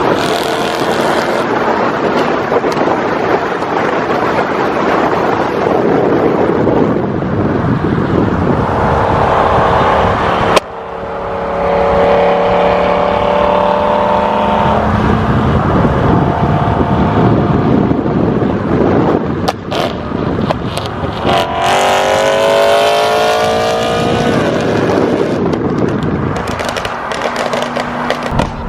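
BMW M3 V8 with an aftermarket valved (Valvetronic) exhaust, revving and pulling hard through the gears, its note rising in pitch several times. A cluster of sharp pops about twenty seconds in fits the tuned exhaust's gunshot-like pops on lift-off.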